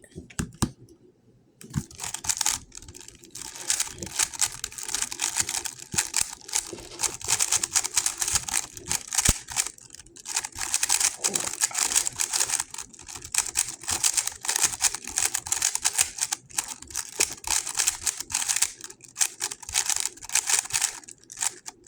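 GAN 11 M Pro magnetic speedcube being turned fast during a solve: a dense run of rapid plastic clicks and clacks, starting about two seconds in, with a few brief pauses.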